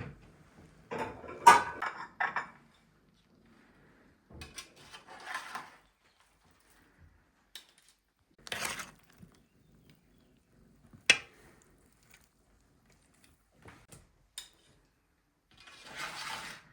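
Dishes and cutlery clinking and scraping in short, separate bursts, with one sharp clink about two-thirds of the way through.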